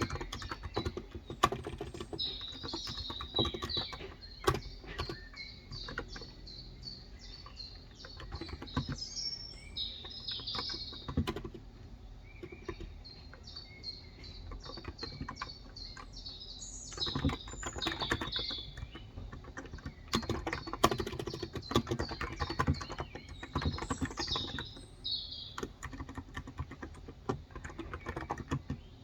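Typing on a Cox Endeavor electro-capacitive (Topre-style) keyboard with light 35 g switches: keystrokes come in irregular bursts with short pauses. Birds chirp in the background, with many short, high, repeated calls through much of it.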